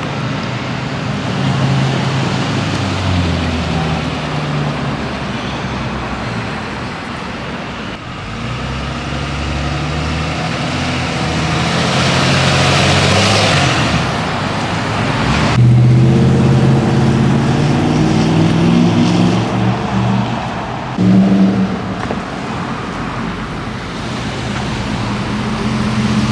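Diesel pickup trucks running and pulling through city traffic, engine pitch rising and falling as they accelerate. One passes close with a swelling rush about 12 seconds in, and the sound changes abruptly to another truck a few seconds later.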